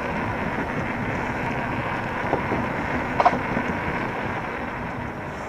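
Steady wind buffeting the microphone and rolling tyre noise from an electric bike riding along a trail, with one brief squeak about three seconds in.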